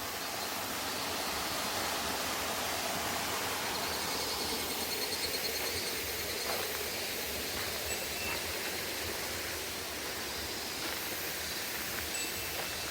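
Steady rushing of falling water, a waterfall or mountain stream.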